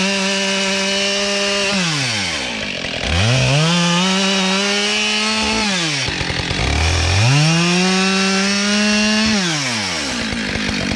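Two-stroke chainsaw revved to full throttle three times. Each time it climbs to a high, steady whine, holds for about two seconds, drops back, and the saw is left idling near the end.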